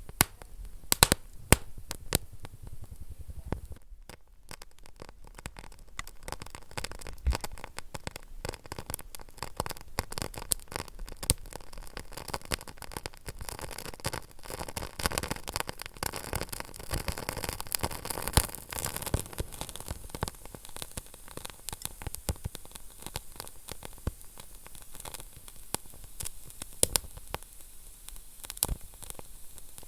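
Wood fire burning in a fireplace, crackling with many sharp pops and snaps over a steady hiss.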